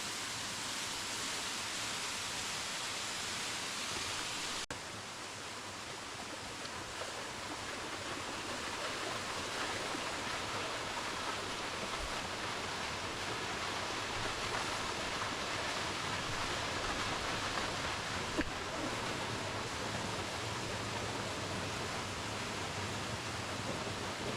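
Crabtree Falls' cascading water: a steady, even rush of falling water, broken briefly about five seconds in.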